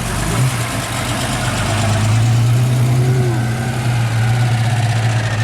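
An engine idling steadily with a loud, deep hum that grows stronger about two seconds in.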